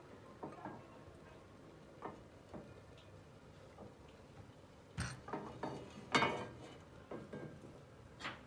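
Kitchen handling noises: scattered clicks and knocks of utensils and cookware, with a louder cluster of knocks about five to six and a half seconds in.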